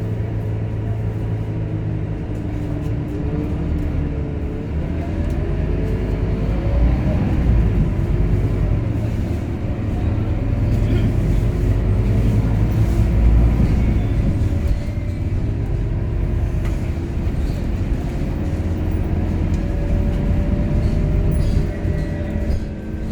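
Scania K230UB Euro V city bus heard from on board, its diesel engine droning low and steady with a whine that rises and falls in pitch as it speeds up and slows. It is loudest about halfway through.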